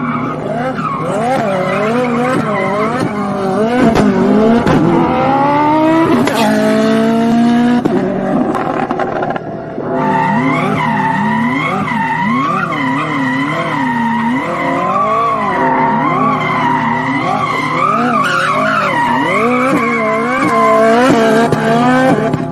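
Koenigsegg hypercar's twin-turbo V8 revving up and down over and over while the car drifts, with tyres squealing on the tarmac.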